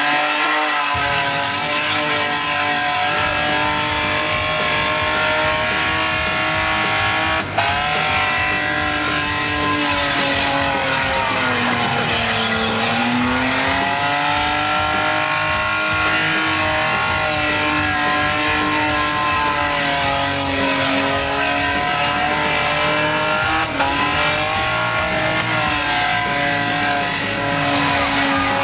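Naturally aspirated Nissan RB30 straight-six held at high revs through a sustained burnout, with the rear tyres spinning and screeching. The revs dip briefly about seven seconds in, sag and recover around twelve seconds in, and dip briefly again near twenty-three seconds.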